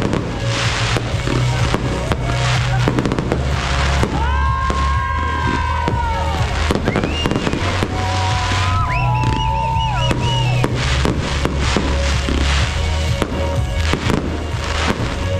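Fireworks display: aerial shells bursting in a quick succession of bangs, over music with a heavy bass line.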